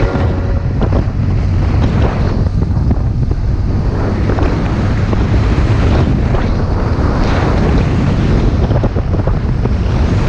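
Loud, steady wind noise buffeting the microphone, a dense low rush of air with no clear tones.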